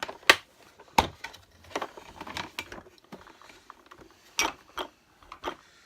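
Hard plastic knocks and clatter from a Hoover Turbopower Junior upright vacuum cleaner being turned over and handled: a few sharp knocks, the loudest two within the first second, with lighter rattling between.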